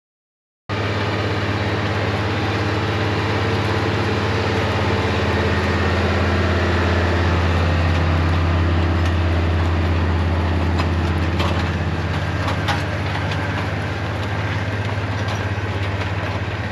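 A large engine running steadily at an even speed, with a strong low hum; it cuts in suddenly just under a second in.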